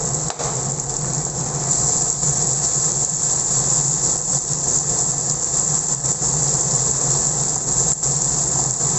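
Chili paste sizzling as it is sautéed in oil in a wok and stirred with a spatula, a steady hiss, at the stage of frying until the oil separates. A steady low hum runs underneath.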